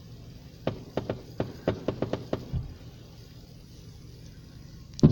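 Aerial fireworks going off: a quick series of sharp pops and cracks in the first half, then one much louder bang near the end.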